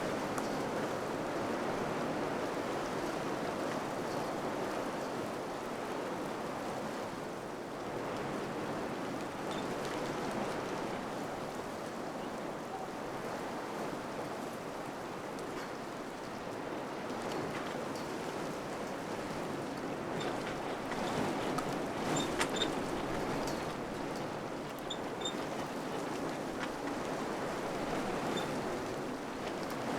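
Wind blowing steadily, swelling and easing in gentle gusts, with a few faint ticks about two-thirds of the way through.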